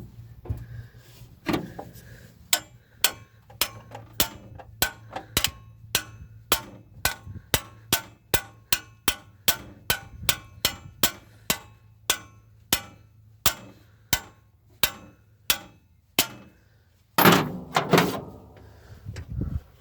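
Hand-tool work on metal engine parts: a steady run of sharp, ringing metallic clicks, about two or three a second, then a louder clatter of metal near the end.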